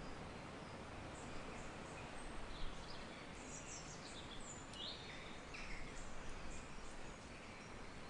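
Nature ambience: birds giving scattered short chirps and calls over a steady background hiss. The calls are busiest in the middle stretch.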